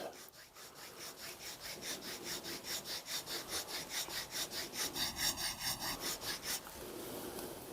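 Small round file rasping back and forth along the grooves of a wooden screwdriver handle, with faint even strokes about three to four a second. A brief high-pitched tone sounds about five seconds in.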